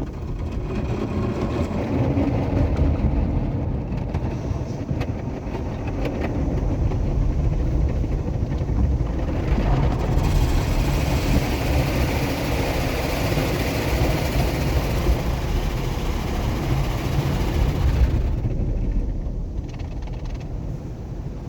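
Automatic tunnel car wash heard from inside the car: a steady low rumble, with water spray hissing against the car from about ten seconds in until about eighteen seconds.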